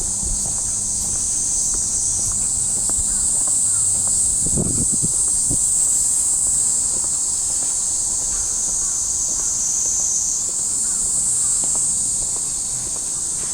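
Cicadas droning in a steady, high-pitched summer chorus that swells twice as more of them join in, over light footsteps on pavement.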